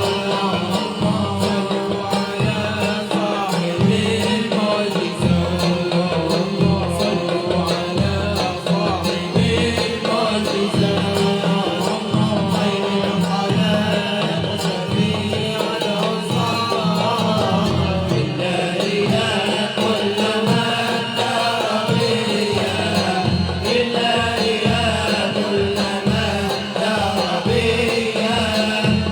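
Libyan malouf ensemble performing: voices singing a wavering melody together over hand drums keeping a steady beat.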